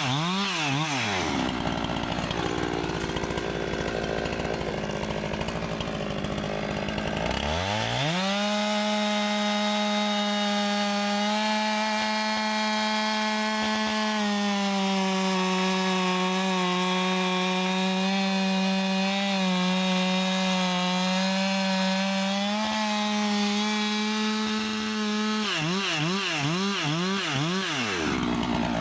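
Husqvarna 390 XP two-stroke chainsaw cutting poplar logs. It drops off full throttle just after the start and runs low for several seconds, revs back up about eight seconds in and holds high through a long cut, then its revs rise and fall several times before dropping again near the end.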